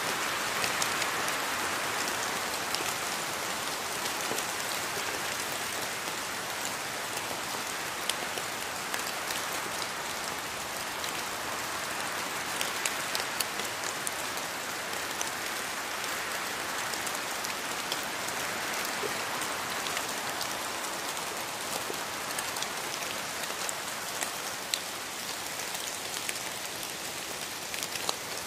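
Steady rainfall in a forest, with many individual drops ticking on leaves and surfaces over an even hiss that swells and eases slightly.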